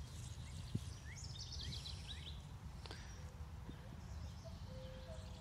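A songbird singing a quick run of short high chirps about a second in, over a low steady outdoor rumble.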